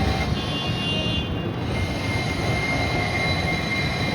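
Chicago 'L' elevated train running on the tracks, a steady rumble with thin, high wheel-squeal tones that start shortly after the beginning and settle into one steady high tone about halfway through.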